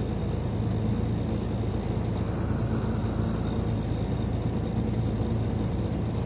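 Steady drone of a semi-truck's engine with road and tyre noise, heard inside the cab while cruising on the highway.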